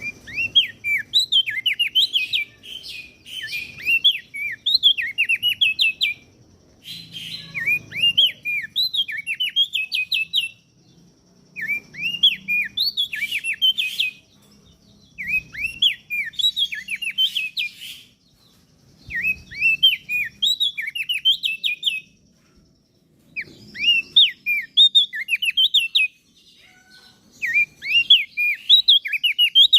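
Crested white-eye (opior jambul) singing: phrases of quick, high chirping notes, each about three seconds long, repeated after short pauses roughly every four seconds.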